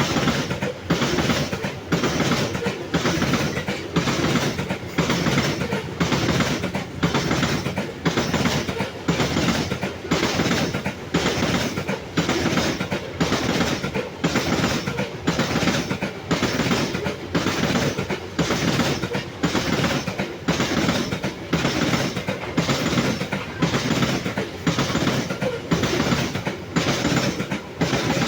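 Loaded coal wagons of a long freight train rolling past, their wheels clattering over the rail joints in a steady, even rhythm of a little over one clack a second.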